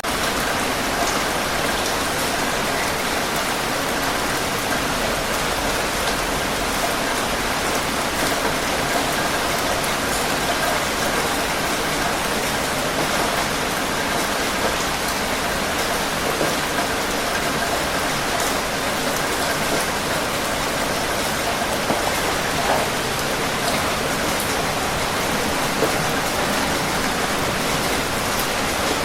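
Steady rain falling and pattering on surfaces, an even hiss with scattered individual drops.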